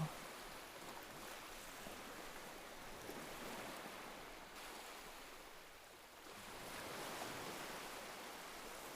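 Soft ocean surf, a faint even wash of waves that swells gently twice and eases off in between.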